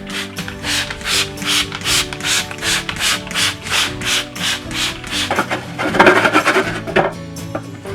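Rhythmic back-and-forth scrubbing of a refrigerator shelf with a sponge or brush, about two and a half strokes a second, turning into a denser, louder rub about five and a half seconds in.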